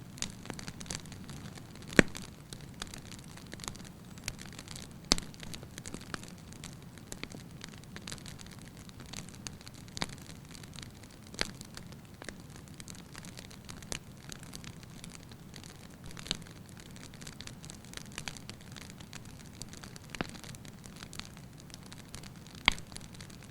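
Wood fire burning in a fireplace: a steady low rumble of flames with irregular sharp crackles and pops from the firewood, a few louder pops among many small ones.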